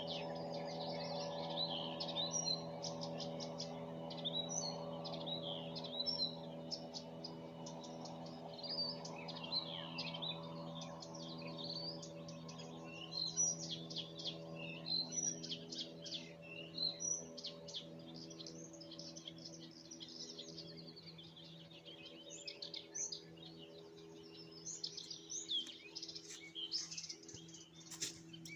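Several small songbirds singing: a busy chorus of quick chirps and trills, thinning out in the middle and picking up again near the end. Under it runs a steady low hum of several held tones, fading somewhat after the first dozen seconds.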